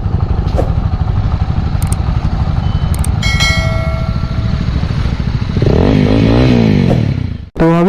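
Motorcycle engine running with fast, even firing pulses, revved up and back down about six seconds in. A brief steady tone sounds about three seconds in.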